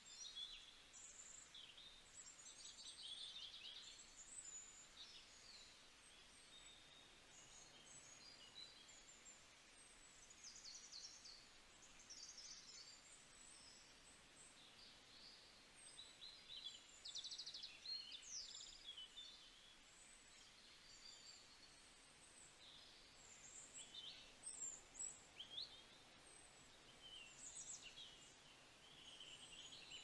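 Faint songbirds chirping and trilling: many short calls, one after another throughout, over a steady low outdoor hiss.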